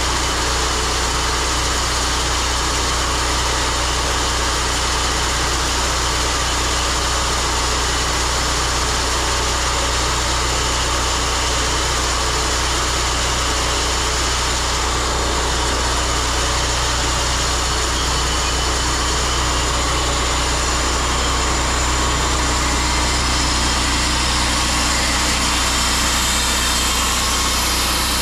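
Sawmill engine running at a steady, even speed.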